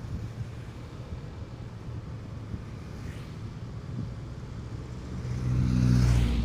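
Motorcycle riding recording: a steady low engine drone under road and wind noise. Near the end the engine grows louder in a swell with a rush of noise, peaking just before the end.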